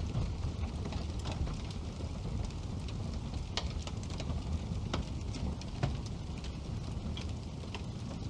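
Wood fire burning in a fireplace, crackling steadily over a low rumble of flame, with a few sharper pops from the burning logs.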